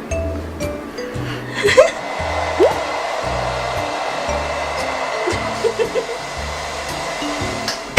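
Hand-held hair dryer blowing steadily with a thin whine, switched on about two seconds in and cut off near the end.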